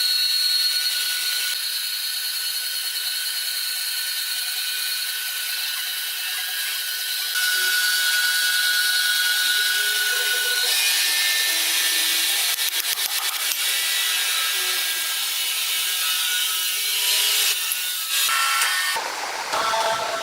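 A power saw running and cutting wood: a steady high whine that shifts in pitch a few times, with hardly any low end. It changes abruptly near the end.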